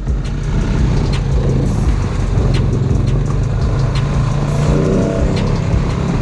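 Off-road vehicle engine running steadily on a trail ride, with occasional knocks from the bumps. Its pitch changes about five seconds in.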